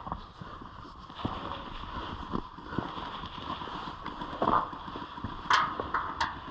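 Irregular knocks and clicks, with two sharp cracks about two-thirds of a second apart near the end.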